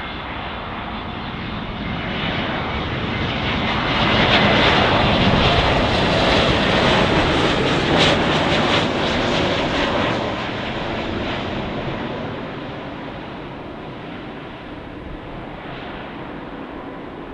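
Airbus A321neo jet airliner passing close on its landing, its engine roar swelling to a peak a few seconds in and then fading away.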